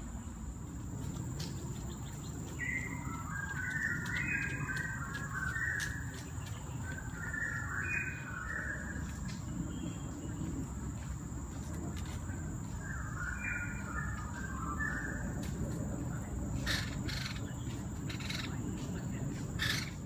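A songbird singing three short phrases of quick, stepping warbled notes, over a steady high whine and low rumble, with a few clicks near the end.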